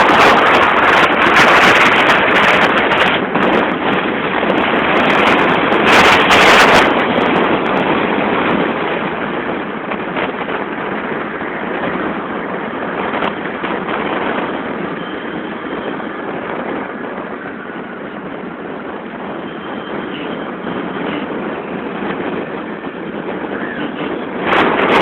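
Road and wind noise from a moving car: a steady rush, with strong surges about a second in and again around six seconds, settling to a quieter, even rush for the rest.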